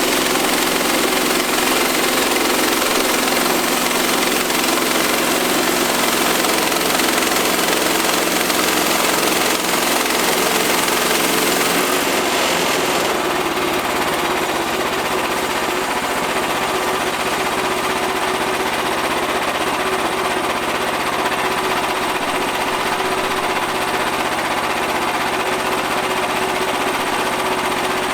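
Portable bandsaw sawmill running on its engine, the band blade sawing through a walnut log with a steady, dense whine and hiss. About twelve seconds in, the high hiss eases and the engine note changes.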